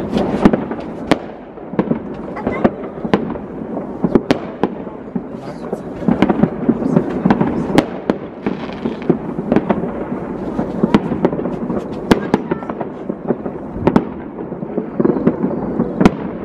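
New Year fireworks going off all around: many sharp bangs at irregular intervals over a continuous rumble and crackle of more distant explosions.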